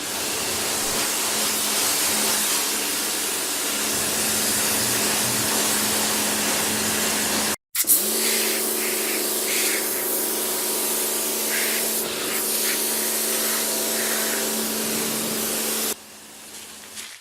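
Car wash high-pressure water spray hissing steadily over a low machine hum. It cuts out for a split second about halfway through, then resumes and drops away near the end.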